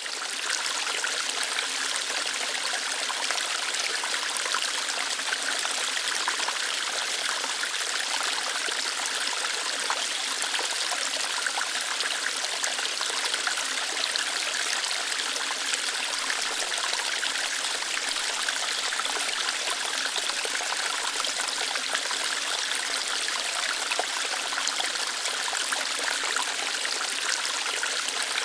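Small waterfall, water flowing lightly through rocks: a steady, even rush and splash of water, fading in over the first second.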